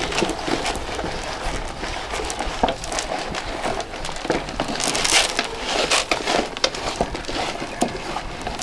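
Hay rustling and crackling as farm animals feed on freshly tossed hay, with scattered short clicks and knocks.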